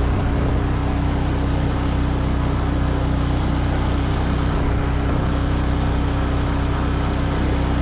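Small engine of a utility cart running steadily as the cart is driven along.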